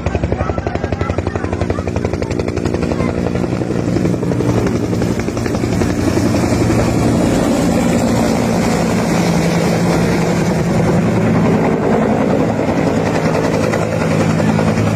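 Helicopter flying close, its rotor blades chopping rapidly over a steady engine hum, growing louder a few seconds in.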